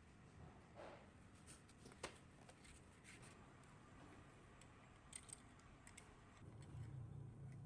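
Faint, sparse clicks and light ticks, as of small parts being handled, over quiet room tone; a low hum comes in near the end.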